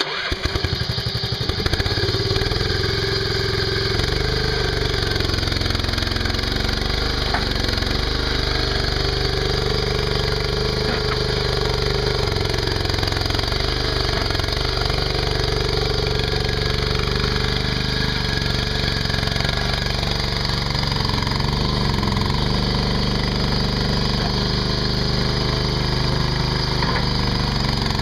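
Mini skid steer's engine running steadily, coming in suddenly with rapid firing strokes at the start and then holding a steady, loud running sound.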